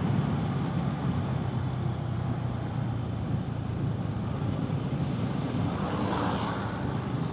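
Bajaj Pulsar N250's single-cylinder engine running steadily while riding, with wind and road noise; a brief swell of hiss about six seconds in.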